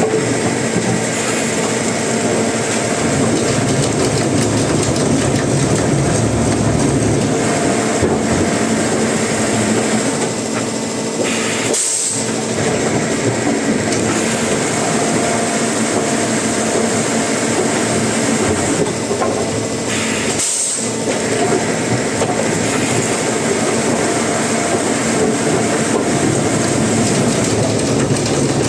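Sawmill machinery running steadily, a dense mechanical noise with a constant hum, broken by short gaps about twelve and twenty-one seconds in.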